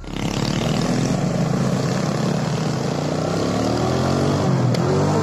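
Motorcycle engine running as the bike rides along, its pitch rising gently in the middle as it speeds up, over a steady rushing noise.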